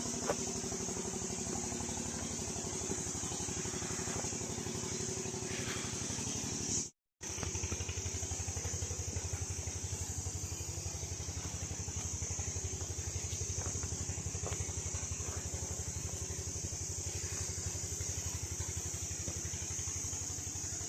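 A small engine running steadily at idle, a low hum with a fast even pulse, under a constant high buzz of insects. The sound cuts out for a moment about seven seconds in.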